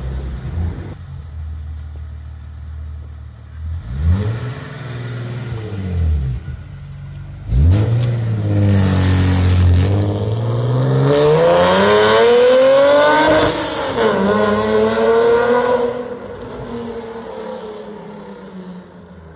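BMW E46 coupe's straight-six with a header, no catalytic converter and straight pipes: a low steady idle, one quick rev about four seconds in, then a loud hard acceleration with the pitch climbing, briefly dropping and climbing again, before the sound falls away near the end.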